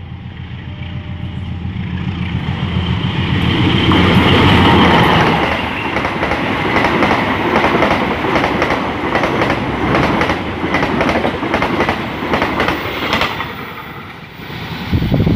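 A passenger train passing close by. The locomotive's engine swells to its loudest about four to five seconds in, then the coaches clatter rhythmically over the rail joints, and the sound fades after about thirteen seconds. A short low bump comes right at the end.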